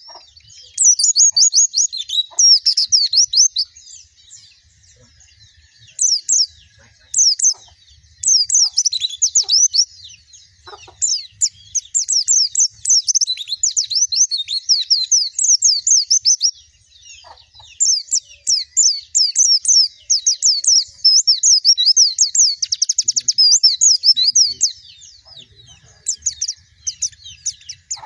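White-eye (pleci) singing in rapid runs of high, twittering chirps lasting several seconds each, broken by a few short pauses.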